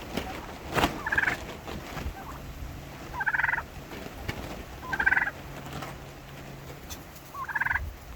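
Domestic heritage turkeys gobbling: four short, rattling gobbles about two seconds apart, over wind rumble on the microphone.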